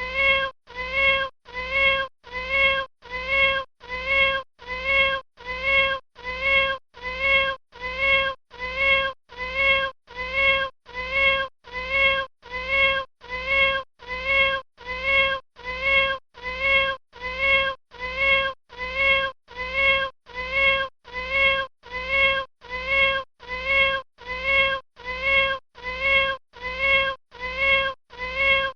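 Kitten meowing over and over: short high mews a little more than one a second, each one alike, in an unbroken even rhythm.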